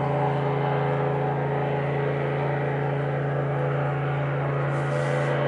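Airboat engine and propeller running with a loud, steady drone.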